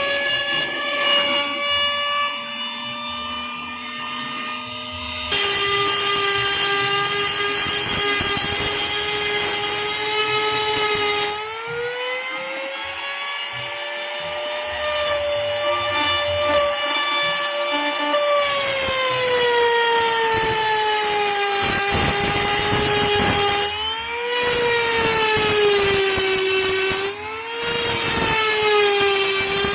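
Handheld wood router running at high speed while cutting a circle through plywood. Its high motor whine sags and recovers in pitch several times as the bit loads up in the cut, over the rasp of the cutting.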